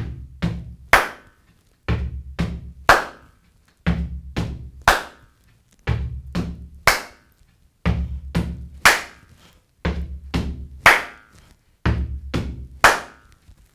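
Gumboot dance body percussion: rubber-booted feet stamping on a platform and a sharp hand strike, together making a simple rhythm cell that repeats about every two seconds.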